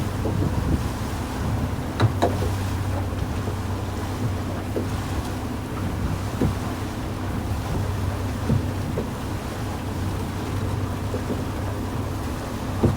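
Fishing boat's engine running steadily under wind and sea noise, with a few sharp knocks through the hull.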